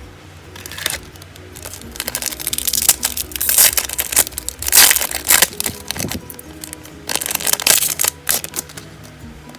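Foil wrapper of a Pokémon trading card booster pack crinkling and tearing open in two spells of bursts, over background music.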